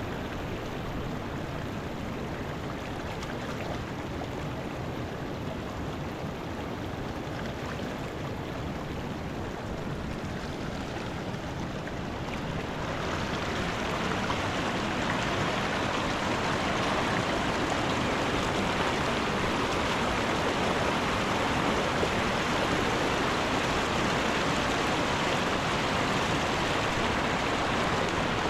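Mountain river water rushing steadily, growing louder and brighter about halfway through.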